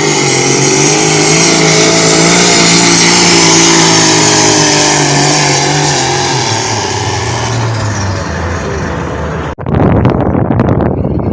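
Farm tractor engine running hard under load in a tractor pull, its pitch dropping in the last few seconds. It cuts off abruptly about nine and a half seconds in, and rough rumbling noise follows.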